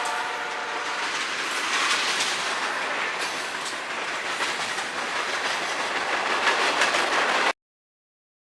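CSX freight train cars rolling past, wheels clacking over the rail joints with a steady rush of wheel and rail noise. The sound cuts off suddenly near the end.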